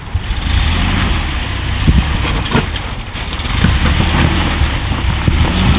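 Off-road 4x4's engine pulling under load as it crawls up a rock section, with a few sharp knocks around two to three seconds in.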